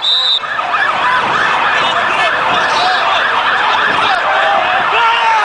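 Several emergency-vehicle sirens sounding at once, their rising and falling tones overlapping in a continuous jumble of fast yelps.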